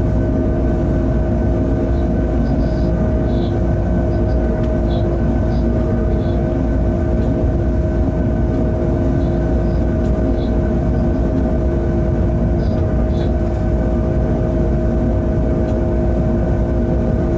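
Freight train locomotive running along the line, heard from inside the cab: a steady low rumble under a constant hum.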